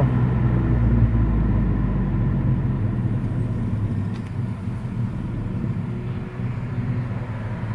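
Cabin sound of a VW GTI Mk5's K04-turbocharged four-cylinder engine and road noise, the low engine hum fading over the first few seconds as the car slows. The engine runs smoothly with no misfire on new Audi R8 coil packs and NGK laser spark plugs.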